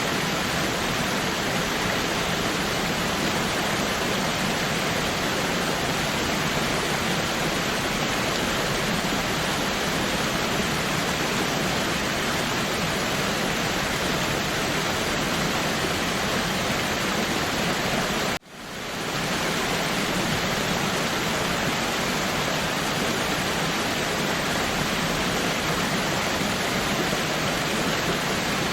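Waterfall: a steady, dense rush of falling water. About two-thirds of the way through it drops out almost to nothing and fades back up within a second.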